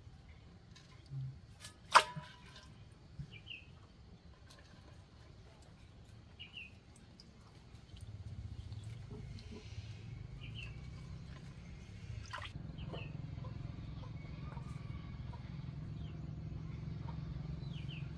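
A small bird gives a short high chirp every two seconds or so over quiet rural background noise. A single sharp knock sounds about two seconds in, and a low rumble comes up about eight seconds in and grows louder near the middle.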